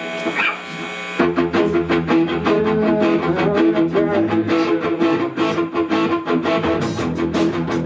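Live rock band starting a song: held electric guitar notes with a bend, then about a second in the full band kicks in with drums, bass and guitars playing together.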